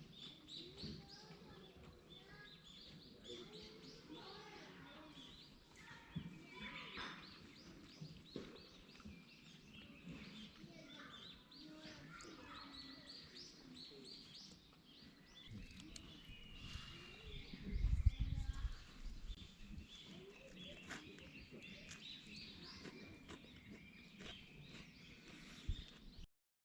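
Small songbirds chirping and singing in woodland, several calls overlapping, with a brief low rumble about 18 seconds in. The sound cuts off near the end.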